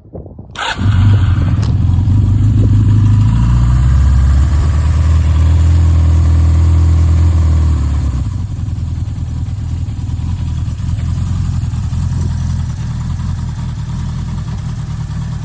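1985 Suzuki GS700E's inline-four engine starting from cold about a second in, then running at a raised idle before settling to a lower, steady idle about eight seconds in as it begins to warm up.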